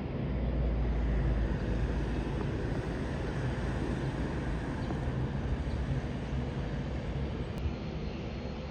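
Steady low rumble and hiss of a Dash 8 turboprop airliner, with no distinct events.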